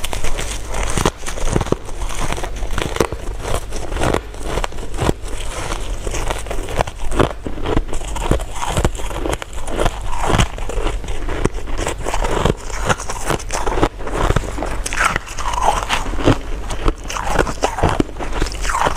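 Close-miked mouth sounds of biting and chewing jelly and crystal candy: a dense, continuous run of sharp clicks and crackles, with a few short squeaks near the end.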